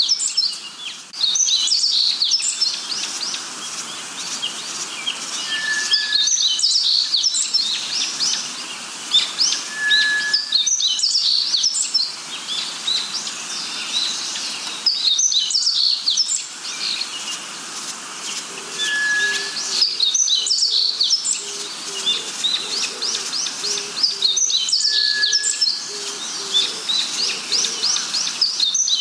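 Birdsong: quick high chirps and trills come in bursts about every four to five seconds, with a short clear whistle now and then.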